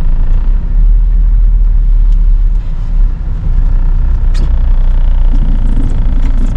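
Steady low road and engine rumble heard from inside a moving car's cabin, with a brief click about four seconds in.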